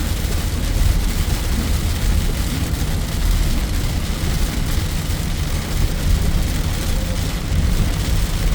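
Heavy rain falling steadily, an even hiss with a constant low rumble underneath.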